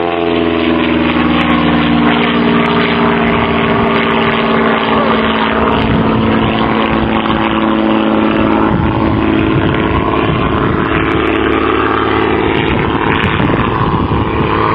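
Piston-engined propeller aircraft flying past, its engine note dropping in pitch at the start and then droning steadily.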